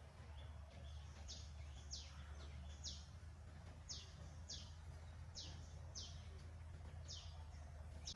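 Faint bird calls: a series of about nine short, high chirps, each falling in pitch, repeated every half second to a second over a steady low rumble.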